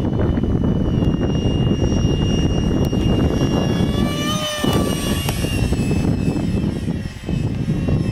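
Electric ducted fan of a Freewing F-35 RC foam jet (64 mm fan, 4300 kV motor) whining in flight; its pitch drops about halfway through as the model passes by. Heavy wind noise on the microphone rumbles underneath.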